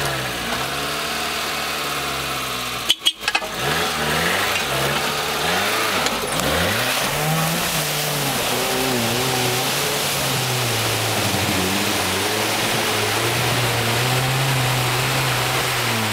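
Suzuki Samurai engine revving up and down as it drives through a deep mud pit, the revs rising and falling under load and then held steadier in the second half. A short burst of sharp clicks about three seconds in.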